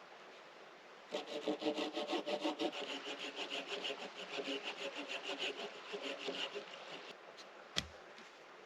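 Hand saw cutting through fallen pine: quick, even back-and-forth strokes for about six seconds, then a single sharp knock near the end.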